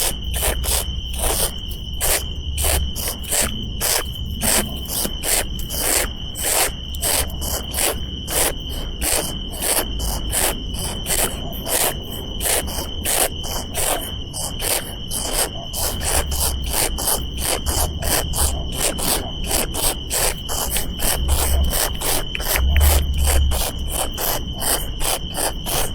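Insects chirping in a steady, fast rhythm of short pulses, about three to four a second, over a continuous high-pitched drone.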